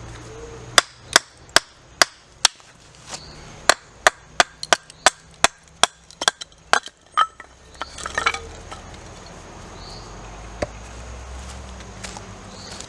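Wood being chopped: a run of sharp strikes into wood, about two to three a second, stopping about seven seconds in. A short clatter follows about a second later.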